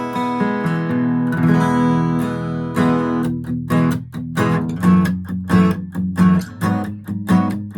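Bentivoglio Genuine 1503C all-solid acoustic guitar being strummed. Full chords ring out for about the first three seconds, then the strumming turns to short, clipped strokes in a steady rhythm with brief gaps between them.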